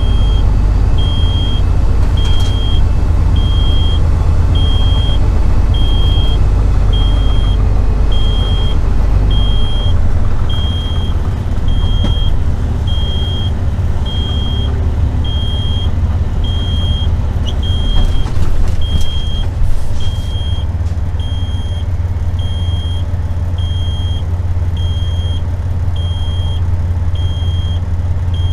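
Heavy truck running with a steady low drone, while a high-pitched beep repeats about once a second. A few brief clicks come through about two-thirds of the way in.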